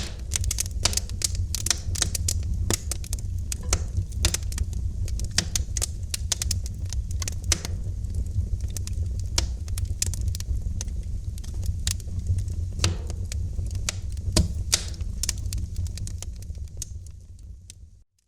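Wood fire crackling in a fireplace: irregular sharp snaps and pops, several a second, over a low steady rumble of the burning. The sound fades out to silence near the end.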